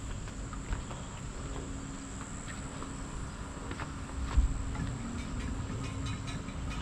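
Insects chirring in a steady high-pitched drone, over a low outdoor rumble, with a single dull knock a little past halfway.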